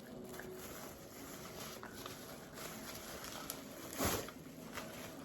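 Faint handling sounds of a hair dryer and its packaging being picked over, with a short louder rustle about four seconds in.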